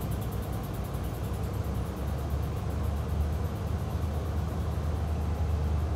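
Steady low rumble of a passenger train running along the track, heard from inside the carriage, with a low drone that grows stronger about two seconds in.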